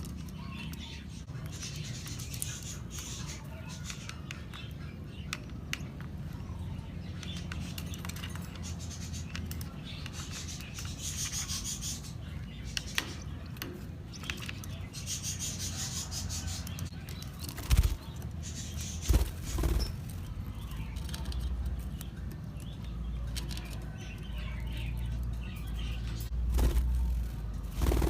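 Lovebirds chattering in short bursts of high chirps over a steady low hum, with a few loud knocks in the second half.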